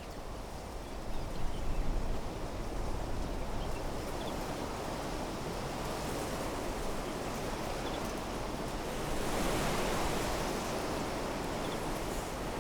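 Wind blowing through trees, the leaves rustling in a steady hiss that swells into a stronger gust about three-quarters of the way through. A few faint, short bird chirps sound now and then.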